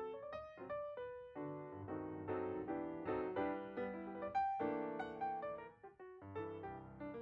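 Background piano music: a melody played in separate, ringing notes.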